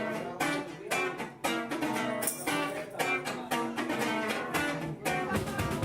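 Live band music: a guitar strumming chords in a steady rhythm, about two strokes a second. Heavier low bass comes in near the end.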